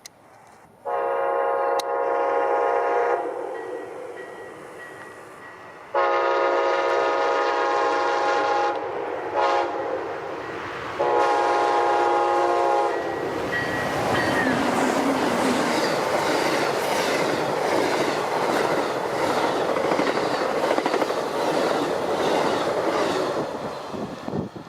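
Amtrak Silver Meteor locomotive's multi-tone horn sounding the grade-crossing signal: long, long, short, long. Then the train passes at speed, with a loud rush and rhythmic clatter of wheels over the rail joints that fades near the end.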